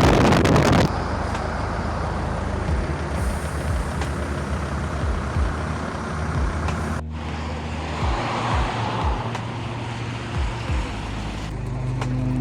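Steady engine and road noise of a Volkswagen T4 minibus on the move, a low drone under a rush of tyre and wind noise. The noise is loudest in the first second and breaks off for an instant about seven seconds in.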